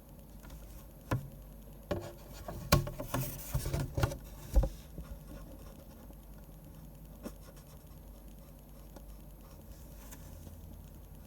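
A run of knocks and taps from drawing tools and objects being handled and set down on a desk, with a brief rustle in the middle of them, for a few seconds starting about a second in; after that only faint desk sounds are left.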